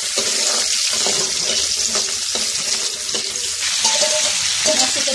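Boiled chicken and onion sizzling in hot oil in an iron kadai, stirred with a spatula: a steady, loud hiss with light scraping.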